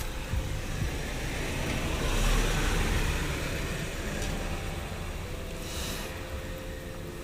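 A road vehicle passing, its noise swelling about two seconds in and then fading slowly.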